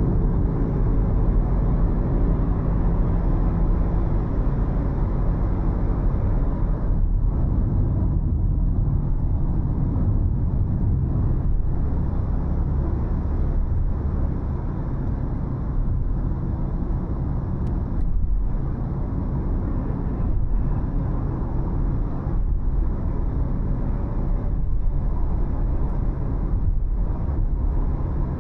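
A car driving along a city road: steady engine hum and tyre and road noise, with the engine note shifting briefly near the start.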